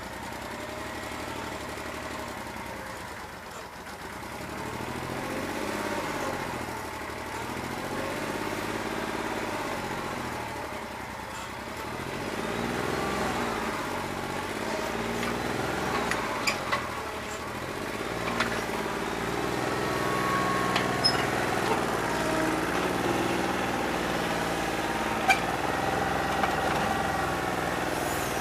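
New Holland 1320 tractor's diesel engine running with its speed rising and falling again and again, missing on one cylinder because of a bad injector. A few sharp clicks come in over the second half.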